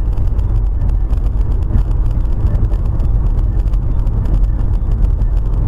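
A vehicle on the road: a steady, loud, low rumble of engine and road noise, with no distinct impacts.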